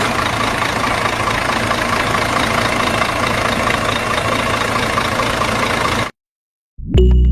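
A small engine or motor running steadily with a fast, even texture, cutting off abruptly about six seconds in. Background music starts again just before the end.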